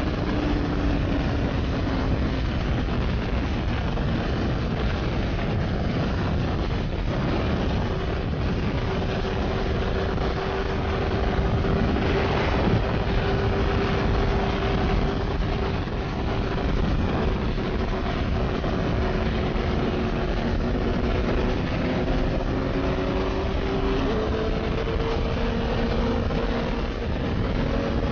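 2009 Yamaha R6S sport bike running at high speed, heard mostly as heavy wind rush over the microphone. The engine's tone sits underneath, drifting slowly in pitch and rising a step about 24 seconds in.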